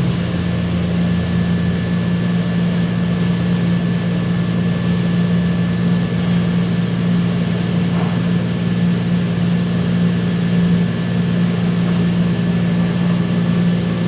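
Jeep 4.6 stroker inline-six on an engine dyno, running loud and steady at an even speed with a constant engine tone.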